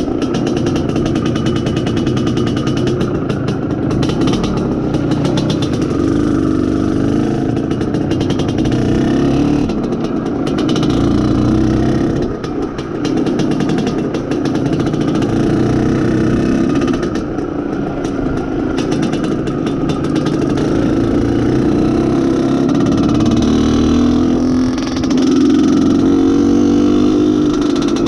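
IZh Planeta Sport's single-cylinder two-stroke engine running under load while being ridden, its revs rising and falling with the throttle, with a brief drop in revs about twelve seconds in. The engine is being run in.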